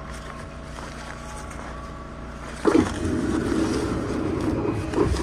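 Tokyu 2020 series electric train standing at a station platform, its onboard equipment humming steadily. About two and a half seconds in, a sudden loud rush of noise starts and lasts about two seconds, ending with a knock.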